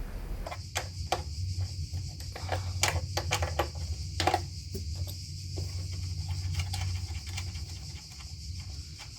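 Irregular light clicks and knocks of hand work on car parts, over a steady low hum.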